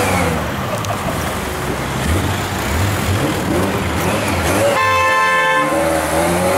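Ferrari F355's V8 engine revving and accelerating, its pitch rising and falling through the gears. A car horn sounds once, for just under a second, about five seconds in.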